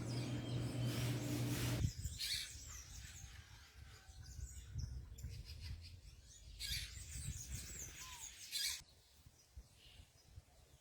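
Faint bird chirps and calls, with a steady low hum for the first two seconds and a few short bursts of high hiss; the sound cuts off suddenly about nine seconds in.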